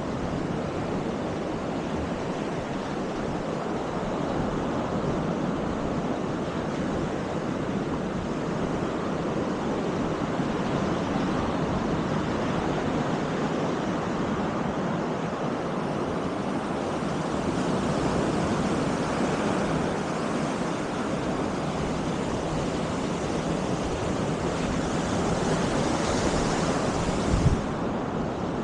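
Baltic Sea surf washing onto the beach in a steady rush, with wind buffeting the microphone. There is a brief low thump near the end.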